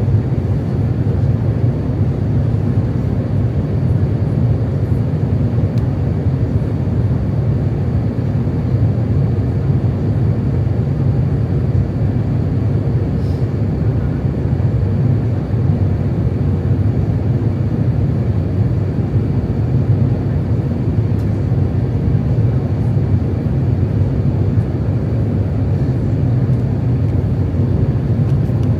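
Airbus A350-900 cabin noise during the approach: a steady low rumble of airflow and engines, unchanging in level.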